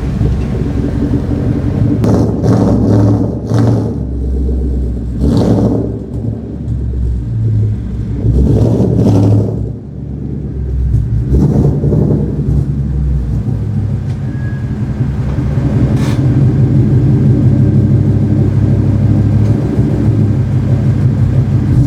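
Car engine and road noise while driving, the engine pulling up through several rises in the first half, then running steadily at cruise.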